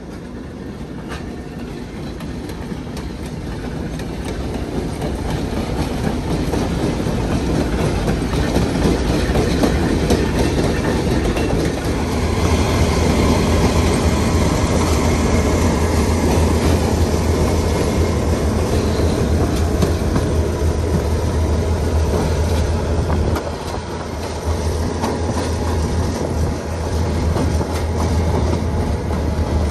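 Napa Valley Wine Train, a diesel-hauled passenger train, running by on the rails and getting louder over the first ten seconds. A deep steady drone from the locomotive comes in from about twelve seconds, over the rumble of wheels on track.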